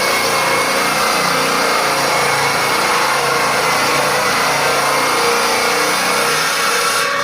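A band sawmill running with a steady, loud mechanical noise. The sound changes abruptly near the end.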